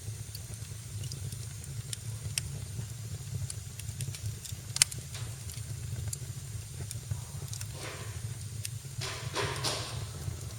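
Fire in a fireplace crackling, with scattered pops over a steady low rumble. One sharp pop stands out about five seconds in, and two brief hissing spells come near the end.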